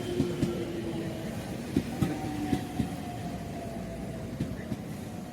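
A train running past on the rails, its wheels clicking and knocking irregularly over the rail joints, with a steady whine that sinks slowly in pitch.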